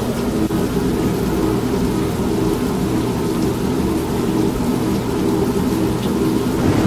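Steady rain with a continuous low thunder rumble, mixed with the constant running of an old washing machine.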